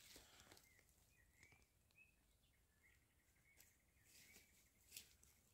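Near silence: faint bird chirps, and one soft click about five seconds in.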